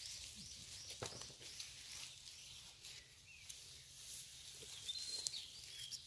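Faint outdoor ambience with a small bird chirping, a quick series of short high notes in the first couple of seconds and a few more near the end, with a few light knocks.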